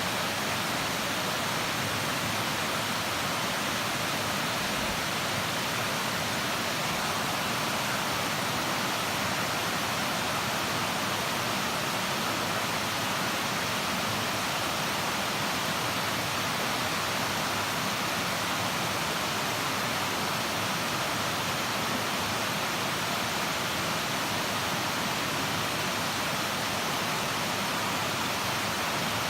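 Steady, unbroken rush of a waterfall spilling over a mill-pond dam.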